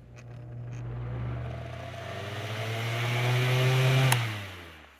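Holmes Blizzard 9-inch oscillating fan's small C-frame shaded-pole motor starting up on high with its guard off: a hum and whir that rises in pitch and loudness as the blade spins up. About four seconds in there is a sharp click, and the sound then dies away.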